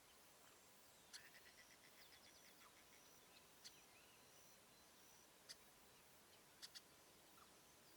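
Small birds calling faintly: a quick chattering series of short high notes about a second in, then a few sharp single chips and thin high whistles.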